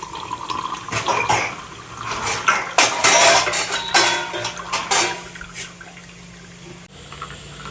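Water splashing and running in irregular surges, with a few clicks, then quieter near the end.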